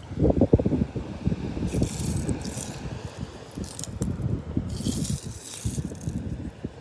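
Loose seashells rattling and clinking as they are sifted by hand, in several short stretches, with wind buffeting the microphone.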